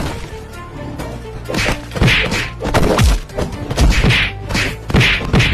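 A series of cartoon fight sound effects: whacks and punches, several ending in a deep dropping boom, over background music.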